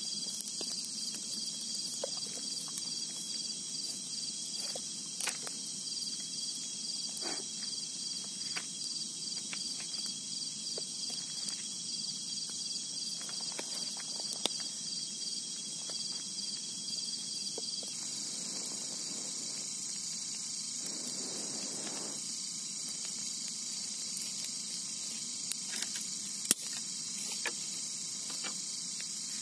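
A steady chorus of crickets and other insects, a high pulsing trill, with scattered faint clicks and taps.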